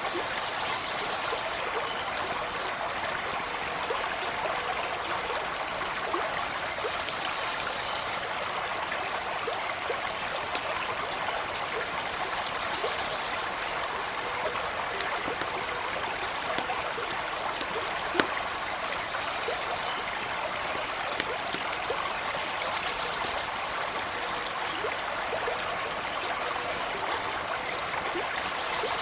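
A small stream running and trickling steadily, with scattered sharp crackles and pops from a campfire.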